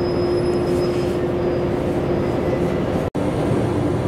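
Diesel railcar heard from on board, running slowly as it brakes into a station, with a steady squealing tone over the running noise. The sound cuts out for an instant about three seconds in.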